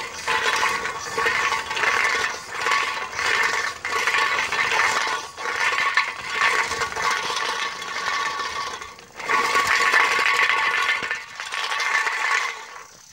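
Small electric motor of a homemade toy road roller running with a buzzing whine and a rattle, in uneven pulses about a second long. It dies away near the end.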